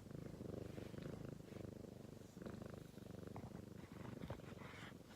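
Domestic cat purring, a low rapid rumble that swells and dips with each breath, about every second and a half.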